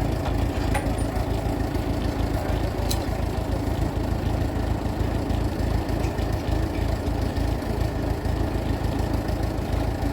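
Ford Major tractor engine idling steadily, a low, even pulsing beat.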